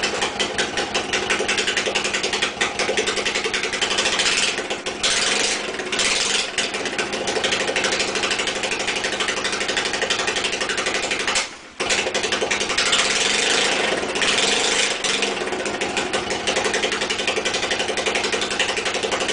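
1992 Honda Nighthawk 250's air-cooled parallel-twin engine running at a steady idle, brought back to life after sitting for 11 years. A brief break about eleven and a half seconds in.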